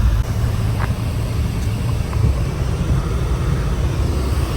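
Ford Ranger pickup driving, a steady low rumble of engine and road noise.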